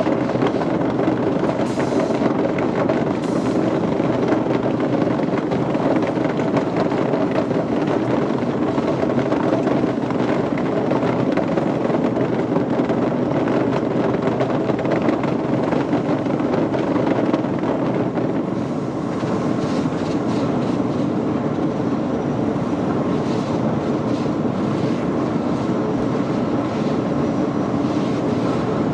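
Steady machinery noise with a continuous mixed hum, dipping slightly about two-thirds of the way through.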